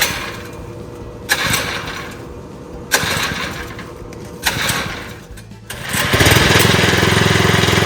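Predator 79cc single-cylinder engine being pull-started cold with the choke on: four recoil-rope pulls about a second and a half apart, then it catches on the next pull about six seconds in and runs steadily at a fast idle. This is its first start.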